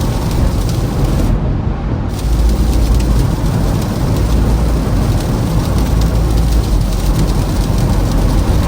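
Toyota Camry driving on a snow-covered, icy road: steady tyre and road noise with a deep low rumble.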